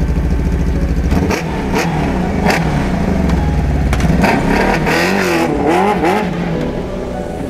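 Sport motorcycle engine revving as the bike pulls away, the engine note climbing and dropping repeatedly from about a second in.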